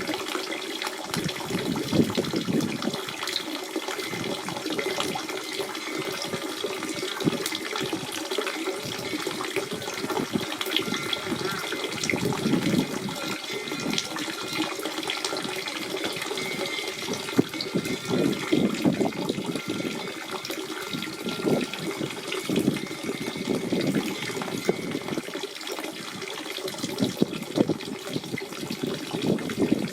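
Natural spring water running and splashing continuously in a steady, burbling flow with many small irregular splashes.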